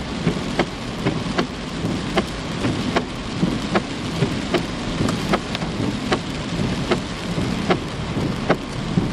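Heavy rain falling steadily, with large drops striking a hard surface close by in sharp, irregular taps, two or three a second.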